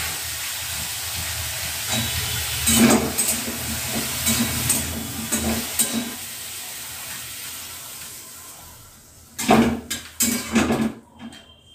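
Potato sticks sizzling in hot oil in a metal karai, with the metal spatula scraping and clicking against the pan now and then. The sizzle fades over the second half, and a few louder sharp clatters come near the end.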